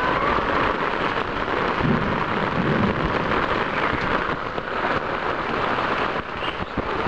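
Heavy rain falling steadily, recorded through a plastic waterproof camera bag, with many drops ticking on the plastic close to the microphone.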